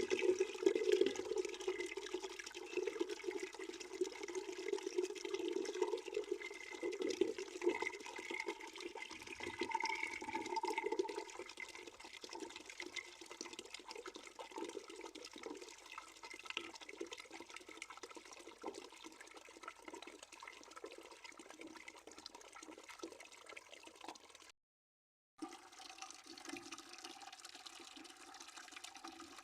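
Water running into a bucket, a steady splashing with a hollow ring to it. It is louder for the first ten seconds or so, then settles softer, and cuts out completely for under a second near the end.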